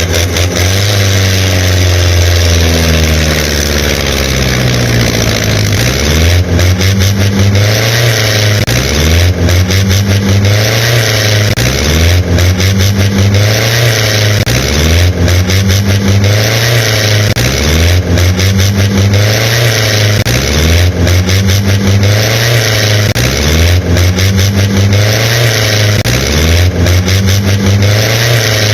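An engine revving up and dropping back over and over, a regular cycle about every second and a half.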